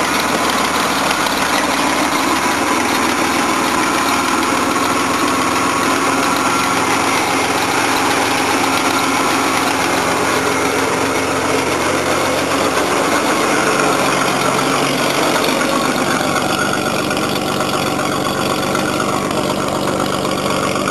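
1987 GMC S15 pickup's engine idling on a cold start after sitting over a year, loud and steady, with the hiss of an exhaust leak; rust is being blown out of the exhaust. The idle note shifts about two-thirds of the way through.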